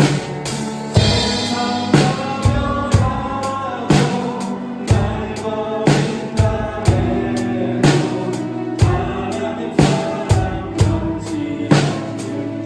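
Drum kit played along to a contemporary Christian worship song recording: bass drum and snare keep a steady beat over the song's backing instruments.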